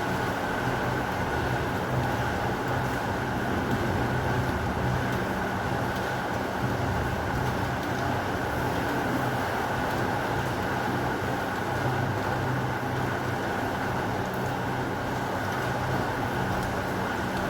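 Heavy rain falling steadily, an even wash of noise with no thunderclaps or other sudden sounds.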